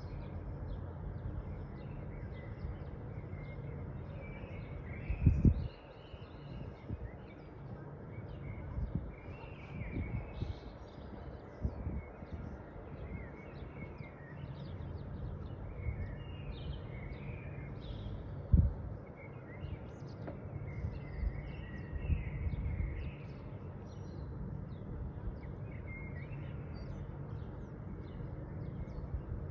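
Small birds chirping and calling in short repeated notes throughout, over a steady low rumble of background noise. Two brief, loud low thumps break in, about five seconds in and again a little past the halfway point.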